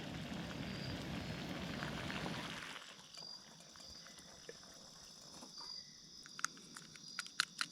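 Wood campfire crackling with scattered sharp pops that come more often toward the end, over insects chirping. A steady rushing noise fills the first three seconds, then drops away.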